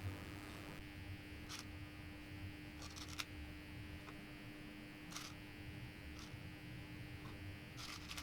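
Faint steady electrical hum, with a handful of light clicks and taps from small craft pieces being handled.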